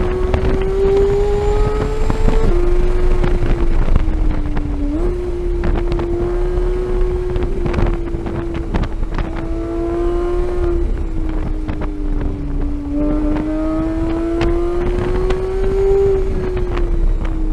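2015 Porsche 911 GT3's flat-six engine at high revs on track, with wind rushing over the microphone. The pitch climbs under acceleration and drops sharply at an upshift about two and a half seconds in. About five seconds in it dips and then jumps up at a downshift. Near the end it sags, climbs again, and drops at another upshift.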